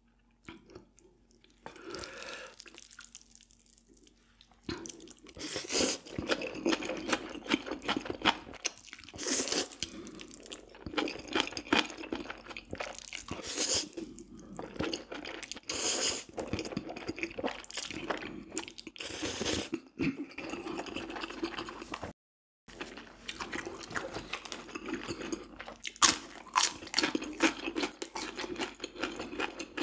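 A person eating close to the microphone: wet chewing with sharp crunchy bites. It starts quiet for the first few seconds, and the sound cuts out for a moment about two-thirds of the way through.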